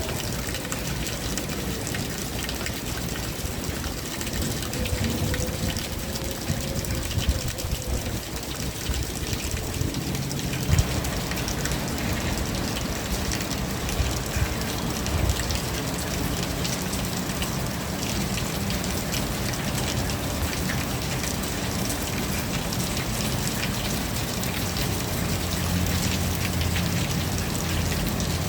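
Rain falling steadily with raindrops spattering on surfaces, growing heavier about ten seconds in with a single sharp knock at that point.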